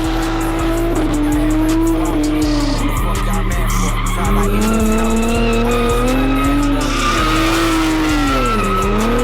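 Car engine revving hard as the car does a burnout and drifts, with tyres squealing; the revs dip briefly near the end and climb again. Music plays underneath.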